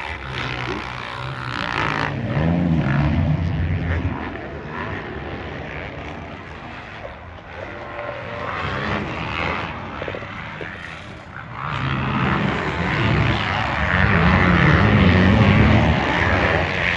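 Racing ATV and dirt bike engines revving and shifting on a motocross track, with the sound swelling twice as machines come close and fading between.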